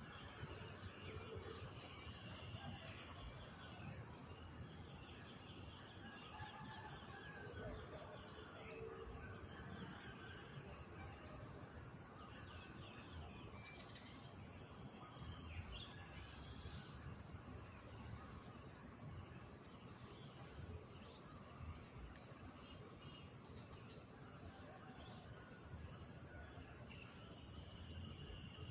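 Rural morning ambience: birds chirping and calling off and on over a steady high-pitched insect buzz, with a faint low rumble underneath.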